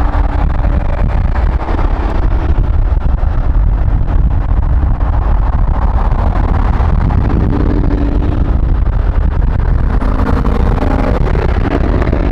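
Steady, loud, low car engine rumble.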